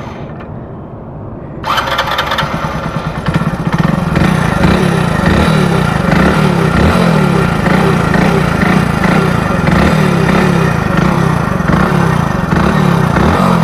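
Hero Splendor Plus BS6's single-cylinder four-stroke engine running with a rasping 'char char' noise, which the owner takes for a worn timing chain rather than tappet noise. The sound is muffled for the first couple of seconds, then comes through clearly and loud.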